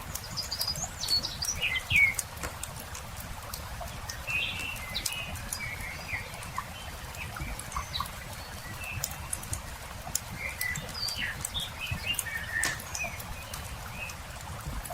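Small songbirds chirping and twittering again and again over the sharp pops and crackles of a wood campfire, with a steady low rumble underneath.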